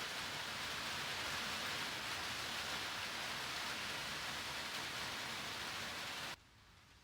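Steady rain falling on a box truck, an even hiss that cuts off suddenly near the end.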